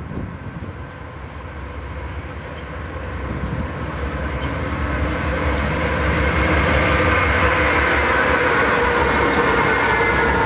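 Amtrak Cascades passenger train approaching, its low rumble growing steadily louder and then holding, with a steady whine of several tones joining from about midway and a few wheel clicks near the end.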